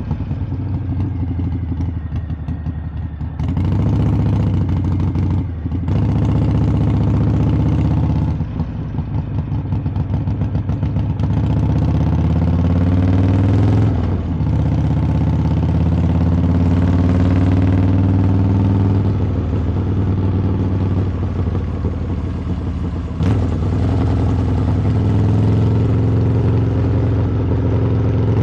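Harley-Davidson V-twin motorcycle exhaust heard from the rider's seat: running low for the first few seconds, then pulling harder under throttle from about three and a half seconds in. The pitch climbs as it accelerates, with short breaks in the pull at gear changes, about three of them.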